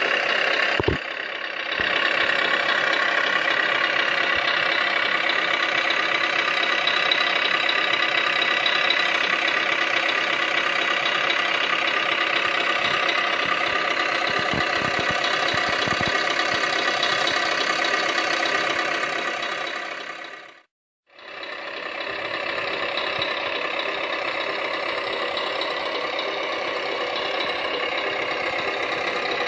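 Steady idling diesel truck engine sound of a 1:14 Tamiya Scania R560 RC model truck. It drops out briefly about 21 seconds in, then resumes.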